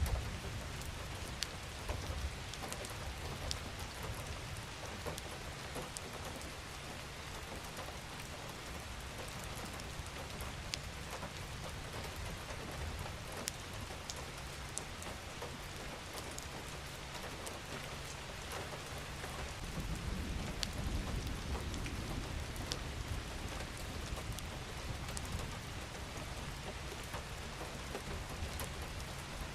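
Steady rain with scattered individual drops ticking close by. A low rumble swells about two-thirds of the way through.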